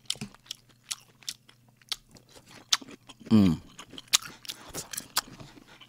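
A person chewing food close to a microphone, with many small crunches and wet mouth clicks. About three seconds in, a short falling hum of the voice.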